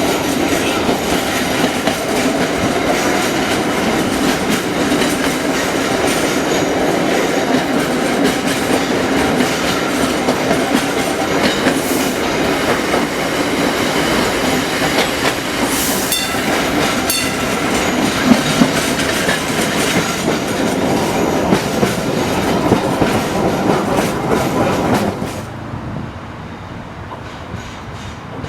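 Vintage Melbourne tram running along the rails: a steady rumble and rattle of steel wheels on track, with a few sharp clicks over rail joints. About 25 seconds in the sound drops suddenly to a quieter, duller rumble.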